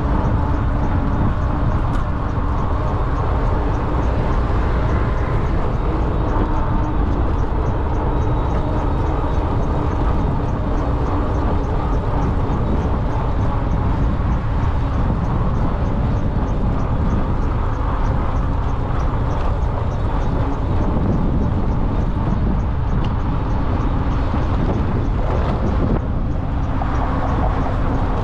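Steady wind rushing and buffeting over the microphone of a moving electric bike, with rolling road noise underneath.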